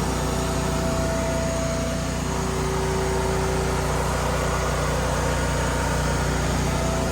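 A motor running steadily: a constant drone with a couple of held tones in it, unchanged throughout.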